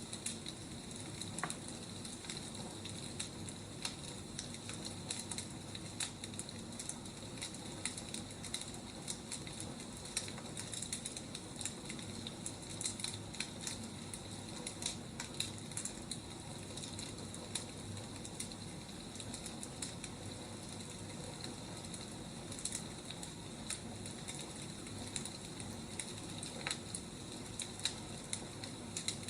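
Wood fire crackling: a steady hiss with frequent small pops and snaps, a few louder ones here and there.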